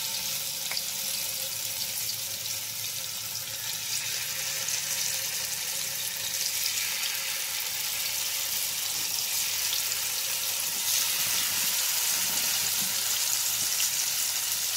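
Marinated paneer pieces sizzling as they shallow-fry in hot oil in a small kadai, more pieces going in one by one; the sizzle grows a little louder in the second half as the pan fills.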